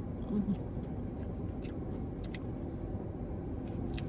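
A steady low rumble with a few faint clicks of chewing as someone eats.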